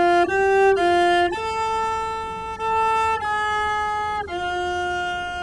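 Cello phrase resynthesized by a sinusoidal model and played back from software: a clean bowed-string tone stepping through about seven notes in a narrow melodic range, some held over a second. It sounds pretty good, though it may lose a little of the note attacks.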